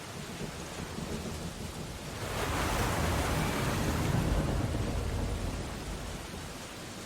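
Steady rain on window glass, with a long rushing surge and low rumble that builds about two seconds in, peaks, and fades again a few seconds later.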